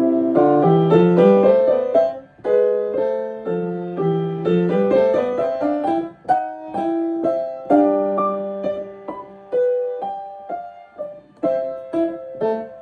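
Piano being played, starting suddenly with quick runs of notes over lower held notes, then moving on to more spaced chords and single notes.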